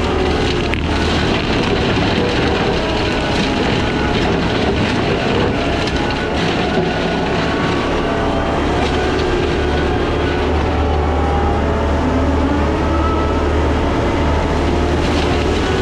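Case skid steer running a Shearex mulching head: a loud, steady machine drone with a whine that wavers in pitch as the head cuts through weeds.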